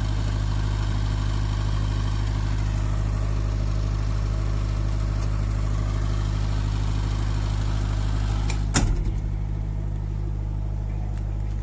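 An engine running steadily at idle, with a sharp knock about nine seconds in, after which the sound is slightly quieter.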